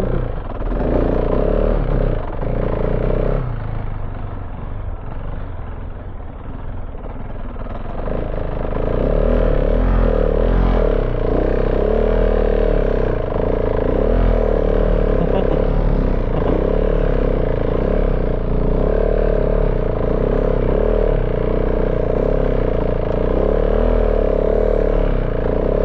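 KTM 690 Enduro R's single-cylinder engine revving hard under load. It eases off about four seconds in, then is held high and steady again with the rear tyre finding poor grip.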